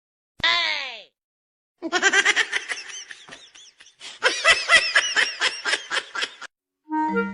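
High-pitched laughter in two quick, pulsing runs of ha-ha syllables, with a short falling cry just before them.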